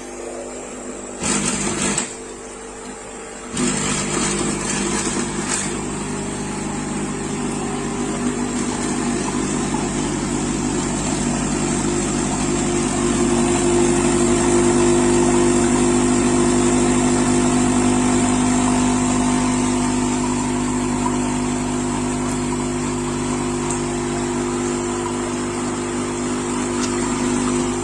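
Dolce Gusto capsule coffee machine's pump running steadily through a brew: a loud, even buzzing hum that starts abruptly and grows louder within the first few seconds. The owner finds its noise and vibration twice what they should be, after a repair that fixed nothing.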